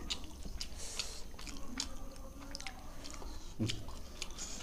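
Chewing of roti and palak paneer, with wet mouth clicks close to the microphone. A soft knock about three and a half seconds in.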